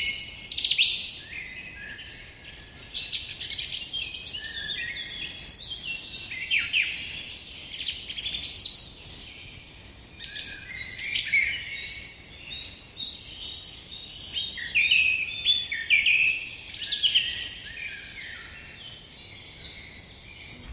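A dawn chorus: many small birds chirping and trilling at once, in a dense, continuous tangle of short high calls.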